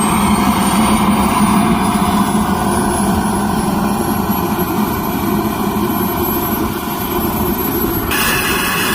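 Model jet turbine engine running steadily, its high whine rising slowly in pitch as it spools up. Near the end the whine cuts off and a harsher hiss takes over.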